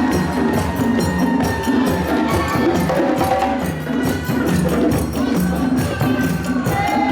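African-style parade percussion ensemble playing a steady, driving rhythm of drum strokes, with rattling shakers and sharp wood-block-like clicks, and a few held tones over the drumming.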